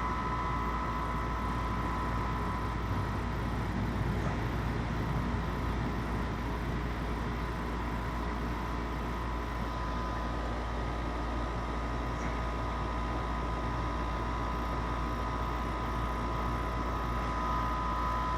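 Goodman 13 SEER R410A condensing unit running steadily while being charged with refrigerant: compressor and condenser fan making a constant low hum with a faint steady whine on top.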